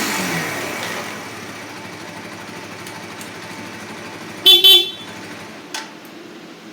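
Kawasaki Z125 PRO's single-cylinder engine dropping back to idle after a blip of the throttle and idling steadily, then two short beeps of the motorcycle's horn about four and a half seconds in. The engine shuts off shortly after with a click.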